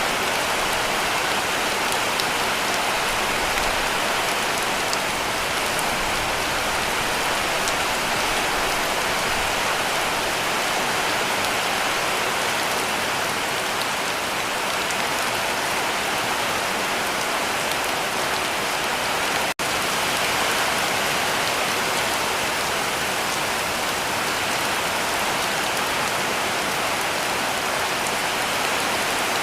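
Heavy rain falling steadily on a cabin roof, a dense, even patter. It drops out for a split second about two-thirds of the way through.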